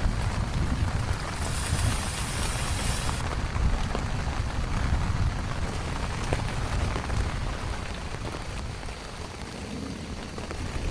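Steady rain falling, with scattered drop ticks over a low rumble. A brief band of brighter, higher hiss comes in about a second and a half in and stops after under two seconds.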